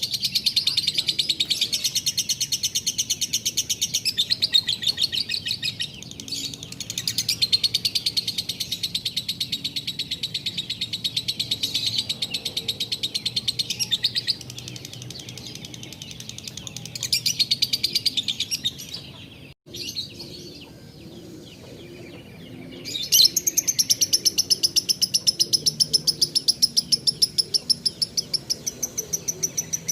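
Lovebird singing long runs of rapid, dry-toned chattering trills: the drawn-out 'tarikan' song that Indonesian bird keepers prize in a fighter-style lovebird. Roughly two-thirds of the way through the song breaks off for a few seconds, then resumes as a higher, steady-pitched rapid trill.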